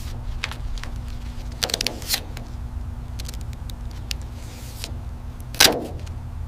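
Workshop handling noises: scattered light clicks and a few brief scrapes over a steady low hum, with the loudest scrape near the end.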